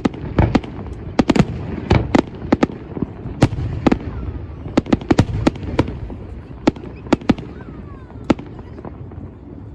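New Year's Eve fireworks going off in quick succession: many sharp bangs and cracks over a steady low rumble. They thin out over the last few seconds.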